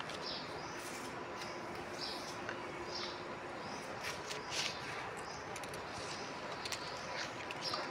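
Small birds chirping faintly in short calls every second or two over a steady background hiss, with a few light clicks.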